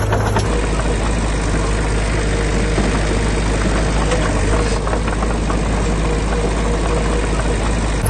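Heavy diesel engine of earthmoving machinery running steadily, with a low hum; the sound changes abruptly about half a second in.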